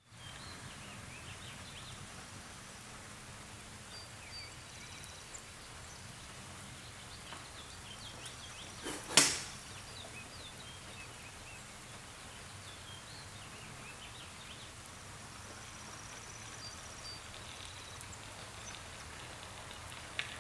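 Light rain falling steadily, with faint short high ticks scattered through it. About nine seconds in comes one loud, sudden swishing hit, and a smaller click comes near the end.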